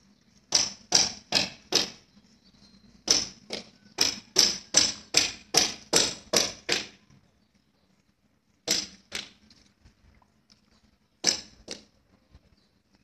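Sharp knocks in quick runs of about two to three a second: four, then nine after a short pause, then two pairs with longer gaps between.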